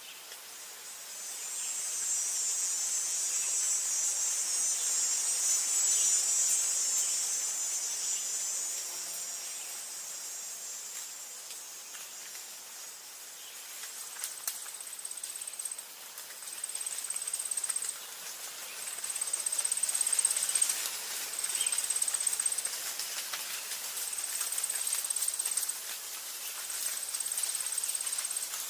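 Insects in a forest: a dense, high-pitched buzzing chorus swells in about a second in and fades away after several seconds. From about halfway, a high trill comes in short bursts a second or two long with brief gaps between them.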